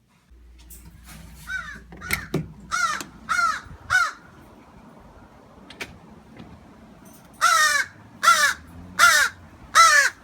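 A six-month-old crow cawing. First comes a run of five harsh caws about half a second apart, then after a pause, four louder caws near the end.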